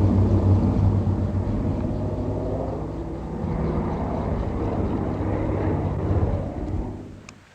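Floatplane's propeller engine running with a steady drone, fading away near the end.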